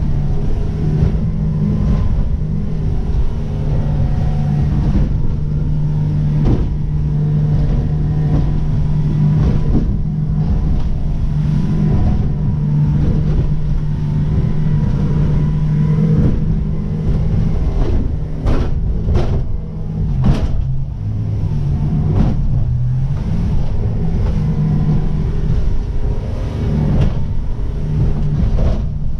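Merry Fisher motor boat's engine running steadily under way, a loud low drone over rumbling water. Three or four sharp knocks come close together about two-thirds of the way through.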